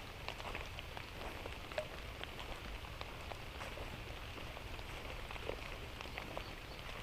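Light rain falling, with many scattered drops ticking irregularly on surfaces over a steady soft hiss.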